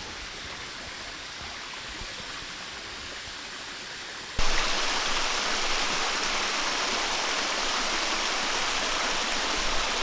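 Rushing water of a small rainforest waterfall, a steady hiss of falling water that suddenly gets louder about four seconds in and then holds steady.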